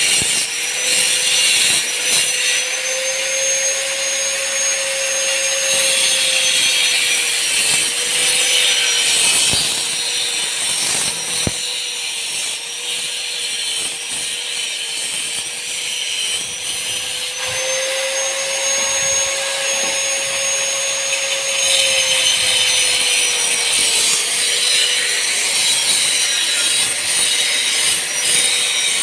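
Power tool whining steadily while grinding or cutting metal, with a hissing, scraping noise that swells and fades as it bites.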